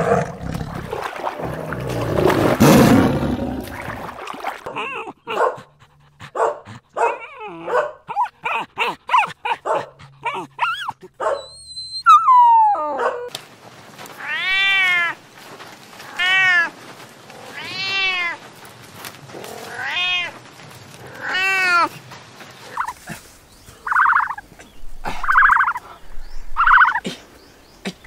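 A tiger's roar for the first few seconds. After other short animal calls, a kitten meows five times, about a second and a half apart, each meow rising and then falling in pitch.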